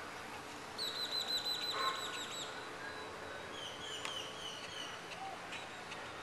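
A bird calling: a fast run of about a dozen short, down-slurred whistled notes, then a softer, slower series of similar notes, over a steady background hiss.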